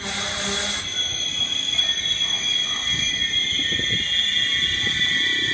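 Locomotive-hauled passenger train rolling slowly past along the platform. There is steady high-pitched wheel squeal over a low rumble, with a few knocks from the wheels in the middle, and it gets louder about a second in.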